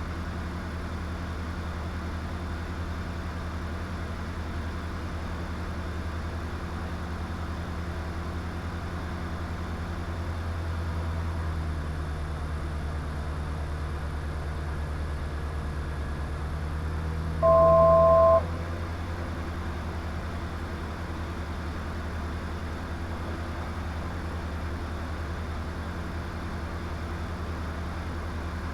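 Diamond DA20's engine running steadily at full power during a touch-and-go climb-out, a low even drone that swells slightly partway through. About two-thirds of the way in, a loud electronic two-tone beep sounds for about a second.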